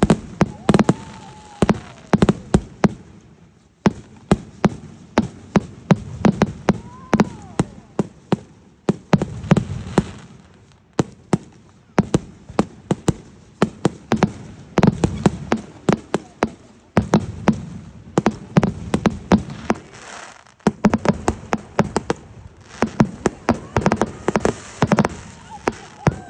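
Aerial fireworks going off: a rapid, uneven series of sharp bangs and crackling pops in bursts, with a few short rising-and-falling whistles among them.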